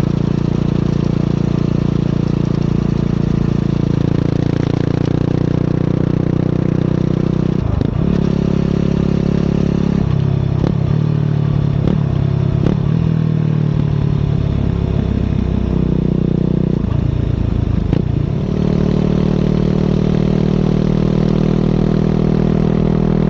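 Motorcycle engine running, its exhaust note steady at first, then dropping and picking back up several times between about eight and eighteen seconds in.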